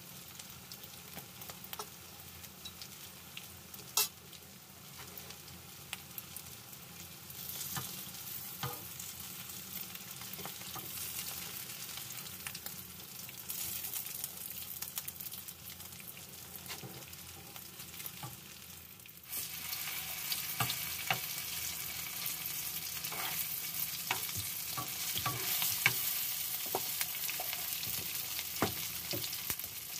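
Eggplant omelette frying in bubbling oil in a pan: a steady sizzle with scattered crackles and pops. A single sharp click sounds about four seconds in, and the sizzle turns suddenly louder about two-thirds of the way through.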